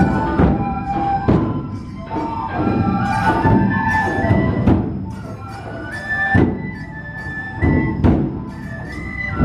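Japanese festival drum music: a bamboo flute plays a stepping melody over heavy, repeated strikes on large drums.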